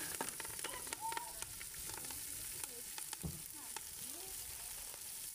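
Kale sizzling in hot oil in a cooking pot: a steady hiss with scattered small clicks.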